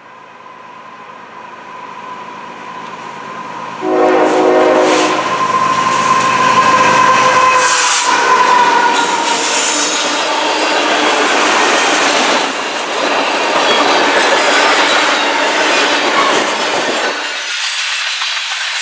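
A train approaching and passing close by: rolling noise builds, a short blast of the locomotive horn sounds about four seconds in, then the loud rumble and clatter of the passing cars, with a high steady whine that drops a little in pitch midway.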